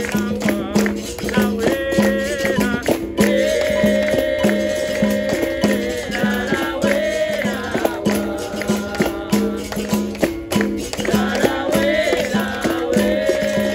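Capoeira roda music: the berimbau's repeating rhythm with the caxixi shaker rattling, hand percussion, and voices singing long held notes over it.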